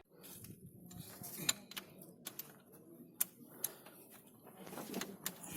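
Scattered sharp metallic clicks and taps, about a dozen at irregular intervals, from hand tools and parts being handled on an engine's connecting-rod big-end caps.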